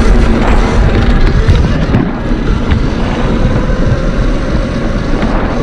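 Loud, steady rush of wind buffeting the microphone while riding an electric dirt bike through snow, with the bike's tyres and drive running underneath.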